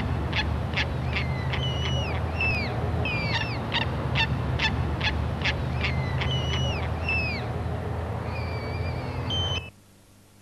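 Birds calling: a rapid string of short, high calls, many sliding downward in pitch, about two or three a second, over a steady low rumble. The sound cuts off abruptly near the end.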